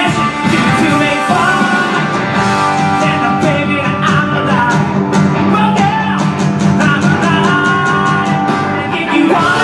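A rock band playing a loud song: electric guitar and a full band, with a singing voice over it.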